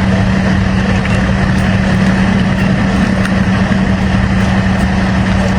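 A vehicle's engine running steadily, a constant low hum over a loud, even rushing noise.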